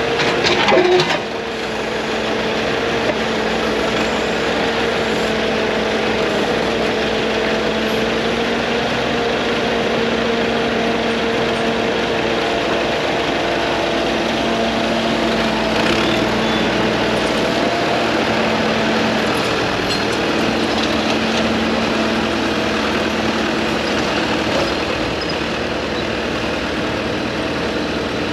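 Heavy diesel engine running steadily, with a brief louder burst about a second in.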